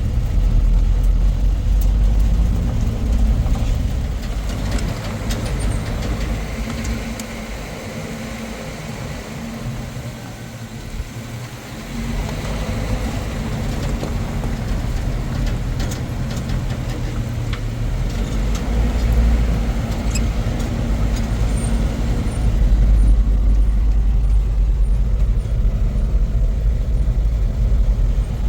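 Strong wind buffeting the microphone in uneven gusts, dropping off for a few seconds near the middle before rising again.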